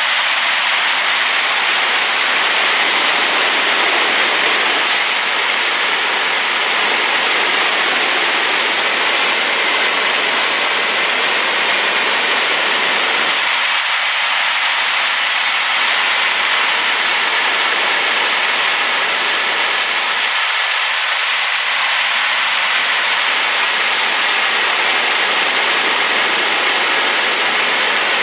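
Rain-swollen waterfall rushing in a loud, steady roar of white noise.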